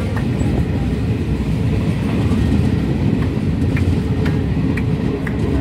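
Train running along the track, heard from aboard: a steady low rumble of wheels on rail, with scattered light clicks and rattles.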